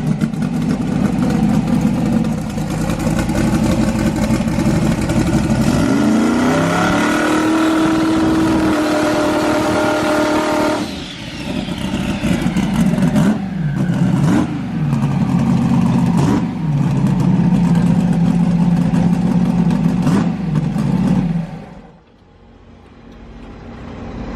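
Twin-turbo V8 of a Corvette drag car running in the pits: a lumpy idle, revved up about a quarter of the way in and held there for several seconds, then a few quick blips of the throttle, settling back before the engine shuts off near the end.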